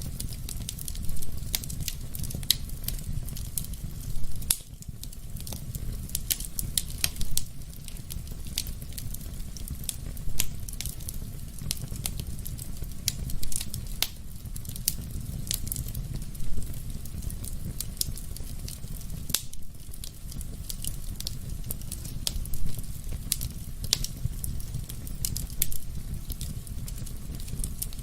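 Wood fire burning in a fireplace: a steady low rumble of flames under constant small crackles, with a louder pop every few seconds.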